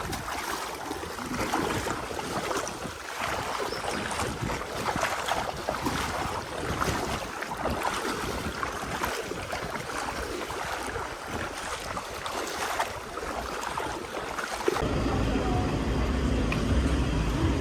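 Rushing, splashing water around a raft on the move, with wind buffeting the microphone. About 15 seconds in it cuts suddenly to a steady low hum.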